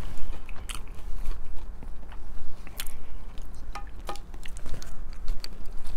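A person chewing fried food close to the microphone, with scattered small mouth clicks and smacks.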